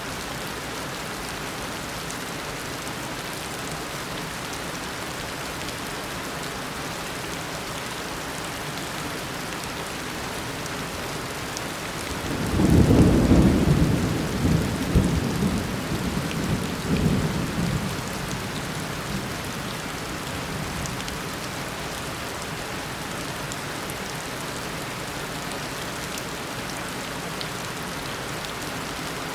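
Tropical downpour of rain falling steadily, with one roll of thunder about twelve seconds in that rumbles for several seconds, loudest at its start, and fades away.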